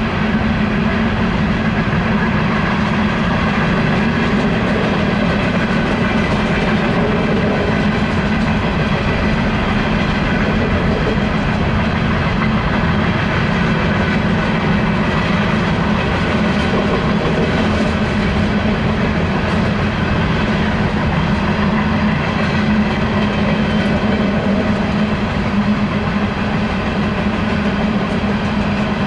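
Empty coal cars of a BNSF freight train rolling past in a steady, continuous rumble and clatter of steel wheels on the rails.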